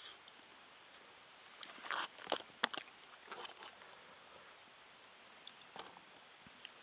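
A person eating a rehydrated freeze-dried meal: a cluster of short clicks and scrapes from the spoon and food pouch about two to three seconds in, a few more later, with faint chewing.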